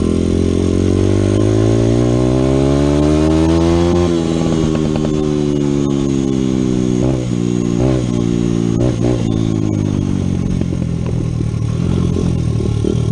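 Dirt bike engine accelerating, its pitch climbing steadily for about four seconds, then dropping as the throttle closes. A few quick throttle blips follow before the revs wind down to lower, steadier running.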